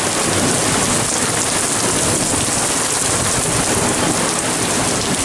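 Rain falling steadily and loudly: a dense, even downpour with no single impacts standing out.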